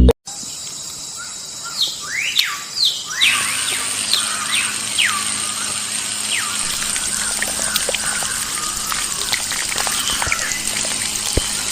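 Birds chirping: a run of quick rising and falling calls, busiest in the first few seconds, over a steady high hiss.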